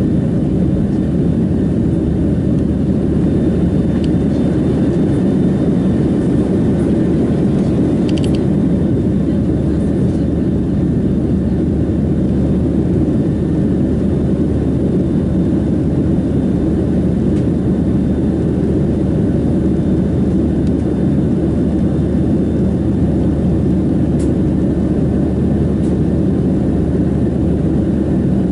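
Steady cabin noise inside a Boeing 737-700 in flight: a constant low rush of airflow and CFM56-7B jet engines, unchanging throughout, with a faint brief click about eight seconds in.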